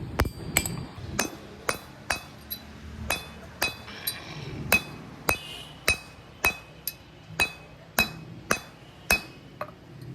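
Hammer striking metal in a steady rhythm, about two blows a second, each blow leaving a short metallic ring.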